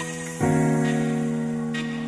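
Background music: a soft keyboard playing held chords, with a new chord coming in about half a second in.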